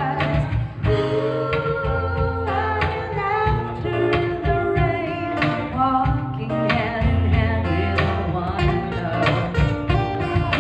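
Live acoustic band: a woman singing with vibrato over strummed acoustic guitar, with acoustic percussion keeping a steady beat.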